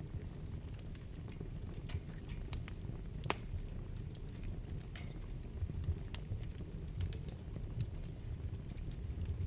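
Wood fire burning in a fireplace: a low steady rumble of flames with scattered sharp crackles and pops, one louder pop about three seconds in.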